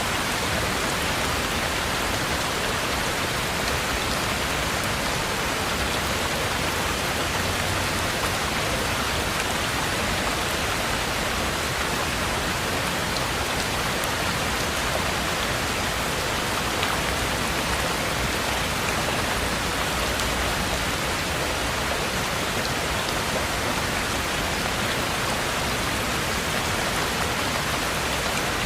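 Heavy rain falling steadily: a dense, even hiss that keeps up with no pauses or thunder.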